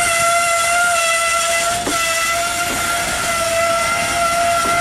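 Broad-gauge covered freight wagons rolling past close by, with a steady high-pitched wheel squeal and a few clacks as wheels cross rail joints.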